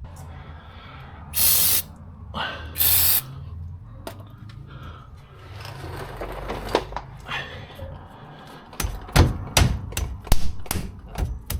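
Two short, loud hiss-like bursts in the first few seconds, then a run of sharp metallic knocks and clanks, several a second, as steel suspension link hardware and tools are worked into place.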